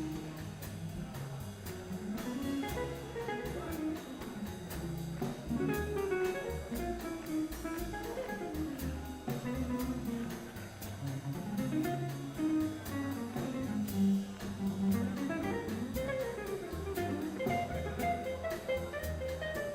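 Live jazz band playing an instrumental passage to a bossa nova beat: upright bass and drum kit with evenly spaced cymbal taps keeping time, guitar, and a melody line played over them.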